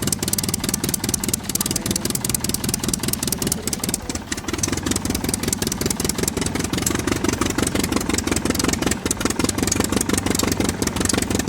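A small engine or motor running steadily with a fast chattering rhythm, the sound of the toy truck driving off. It dips briefly about four seconds in, then runs on slightly fuller.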